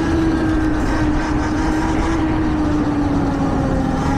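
Electric motor of a converted Yamaha YZ85 dirt bike whining under way, its pitch slowly falling as the bike slows, with wind rumbling over the GoPro microphone.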